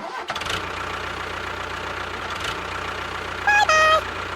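Small vehicle engine idling steadily with a fine, even rhythm. Near the end comes a loud two-note tone, the second note lower, lasting about half a second.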